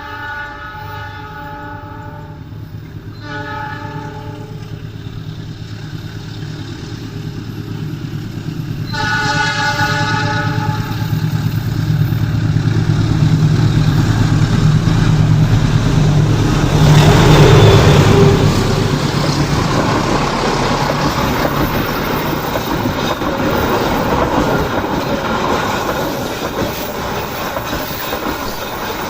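CC206 diesel-electric locomotive running loud as it works up a curving climb. Its horn sounds a long blast, a short one, then another long one about nine seconds in. The engine's deep drone grows and is loudest as it passes about seventeen seconds in, then the coaches roll by with a clickety-clack over the rail joints.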